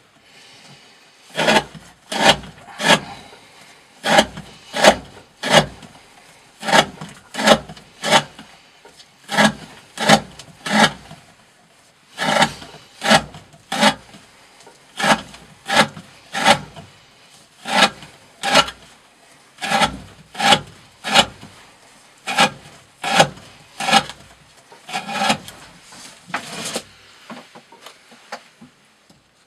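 A D2-steel knife blade slicing repeatedly through 20 mm rope, each cut a short rasping stroke. The cuts come about every half second, mostly in runs of four with brief pauses between runs.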